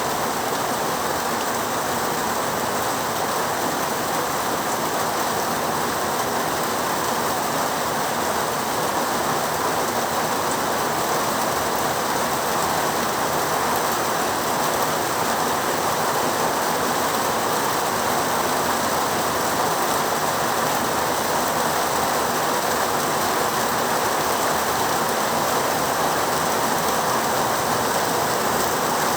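Heavy rain falling steadily: a dense, even hiss with no thunder or other sudden sounds.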